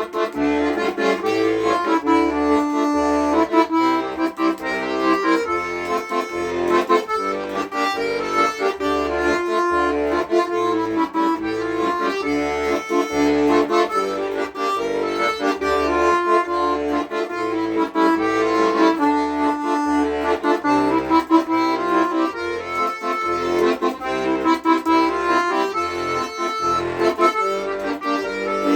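Accordion playing an instrumental introduction: a melody line over a steady, evenly repeating bass accompaniment, with no singing.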